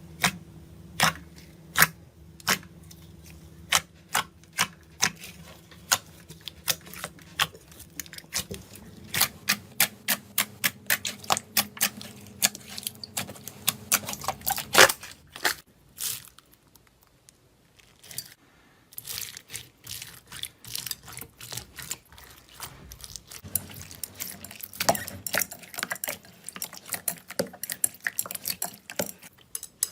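Slime being pressed and squeezed by hand, giving sharp clicking pops, then after a short pause, denser, faster crackling.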